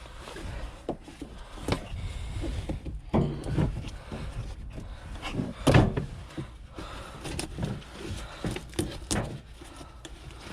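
Irregular knocks, clicks and clatter of parts and tools being handled while taking apart a van's front end, with the loudest knock a little past halfway.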